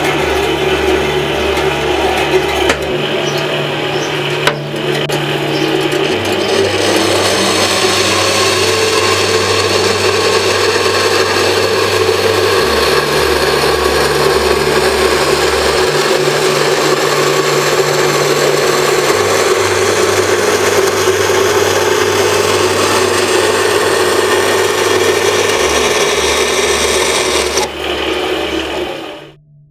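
Homemade vertical bandsaw with a bi-metal blade cutting metal: a loud, steady grinding of motor and blade that cuts off abruptly near the end. A low bass line changes note every few seconds beneath it.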